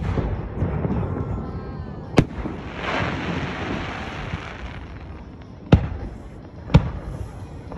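Aerial firework shells bursting overhead. Sharp booms come about two seconds in and twice more near six and seven seconds, over a low rolling rumble, with a stretch of hissing crackle between them.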